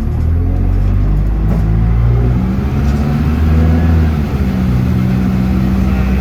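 Bus engine pulling under load, its pitch climbing and then dropping back several times, as through gear changes.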